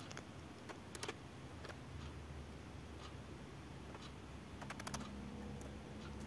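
A few faint, sharp clicks or light knocks, a double one about a second in and a quick run of four or five near the end, over a low steady rumble.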